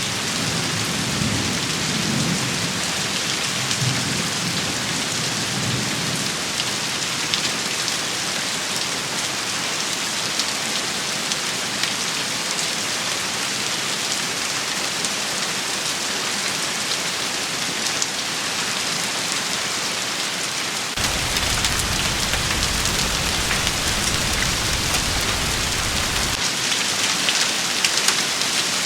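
Steady, dense rain shower pattering on surfaces. Low rumbles come in over the first few seconds, and a louder low rumble starts abruptly about two-thirds of the way in and cuts off suddenly about five seconds later.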